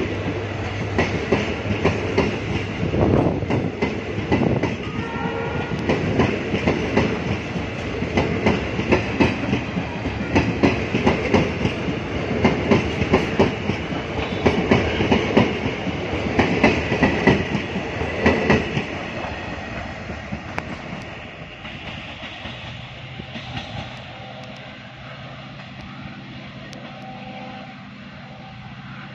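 Passenger coaches of a departing train rolling past, their wheels clattering in a quick rhythm over the rail joints. After about twenty seconds the clatter fades as the last coach goes by and the train draws away.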